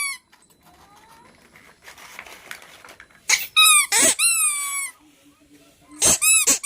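High-pitched squeaks, each a short burst that slides down in pitch. A cluster comes a little past three seconds in, one of them long and drawn out, and a quicker run of squeaks comes near the end.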